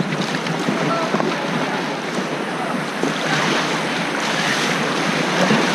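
Rushing river water from white-water rapids around a raft, mixed with wind buffeting the action-camera microphone: a steady rough noise.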